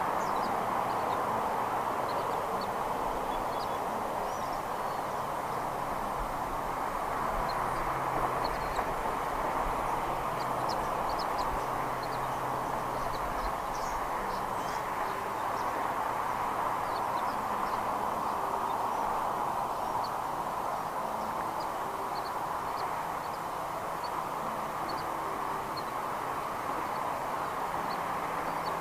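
Steady outdoor background noise with a low hum beneath it, and many short, high bird chirps scattered throughout.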